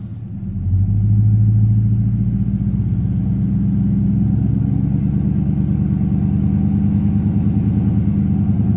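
Pickup truck engine revving and held at high revs under load as the stuck truck tries to drive out of the mud; the engine note climbs under a second in and then stays steady.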